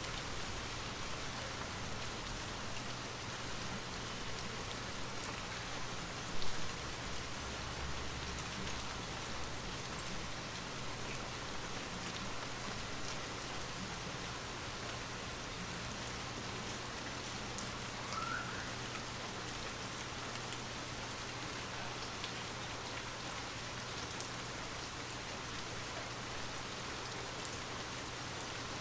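Steady rain falling, an even hiss with scattered drop ticks, over a low steady hum. A brief louder thud about six seconds in.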